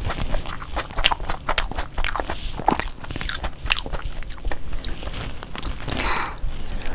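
A person chewing a bite of burger, with many sharp mouth clicks and smacks coming in quick succession.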